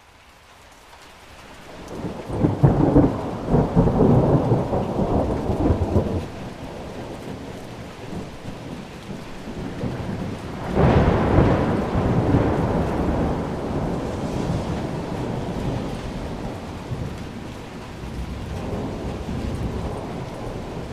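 Thunderstorm: steady rain fading in from silence, with two rolls of thunder. The first rumbles heavily for several seconds starting about two seconds in. The second breaks sharply about eleven seconds in and rolls away slowly.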